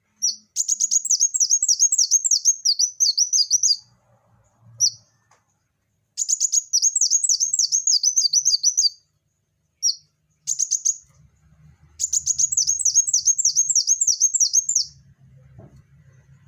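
A kolibri wulung sunbird singing in rapid runs of sharp, high, repeated chirping notes. The runs last a few seconds each and are broken by short pauses, with several separate bursts.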